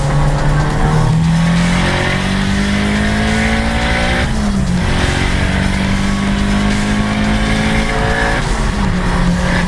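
Big-turbo Volkswagen Golf Mk5 GTI turbocharged four-cylinder accelerating hard under wide-open throttle. Its pitch climbs steadily, drops at an upshift about four seconds in and again about eight and a half seconds in, and climbs again after each.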